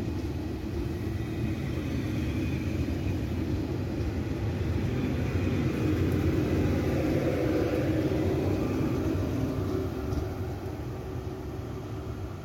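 TGV Duplex high-speed train (set 272) rolling past: a steady rumble of its double-deck cars on the rails that grows louder toward the middle, then fades near the end as the rear power car goes by.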